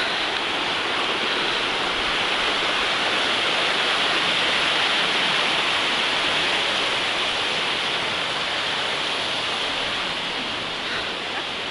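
Waterfall rushing: a steady hiss of falling water that swells a little midway and eases slightly near the end.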